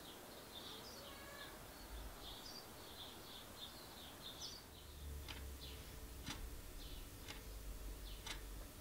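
Faint birds chirping over a low background rumble: a quick twittering at first, then repeated short, sharp chirps in the second half.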